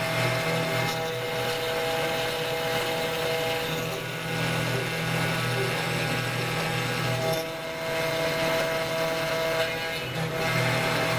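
CNC router spindle running with a steady whine while the bit cuts acrylic resin, with short dips in level about 4, 7.5 and 10 seconds in.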